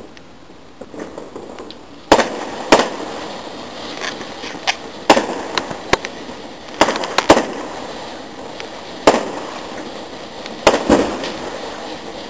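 Fireworks going off: about ten sharp, loud bangs at irregular intervals, some in quick pairs, each trailing off in a short echo.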